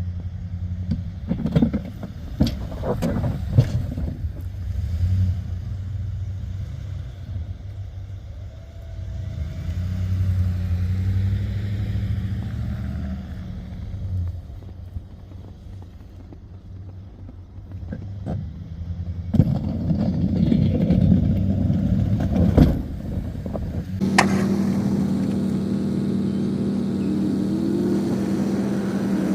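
Snowplow truck engine running under load, rising and falling in pitch as it pushes snow, with scattered knocks and clanks. About three-quarters of the way through it changes abruptly to a different, steadier engine tone.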